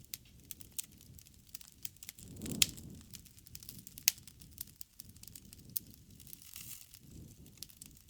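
Wood campfire crackling: sharp pops and snaps over a low rumble of burning, with a swell of flame about two and a half seconds in and the loudest pops then and at about four seconds.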